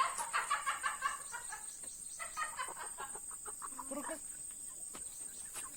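Chickens clucking: many short calls in quick runs, busiest in the first half, with a lower drawn-out call about four seconds in.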